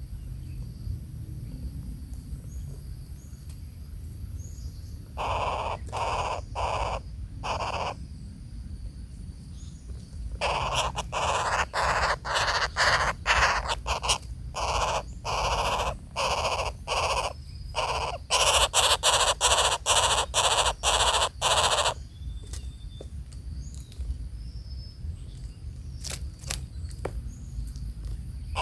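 Harsh, rasping bird calls in rapid repeated bursts: a short series about five seconds in, then a long, louder run of calls from about ten seconds in that stops abruptly near twenty-two seconds.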